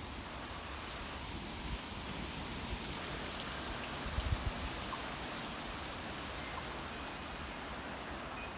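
Steady rain falling, an even hiss with a few faint ticks, and a brief cluster of low thumps about four seconds in.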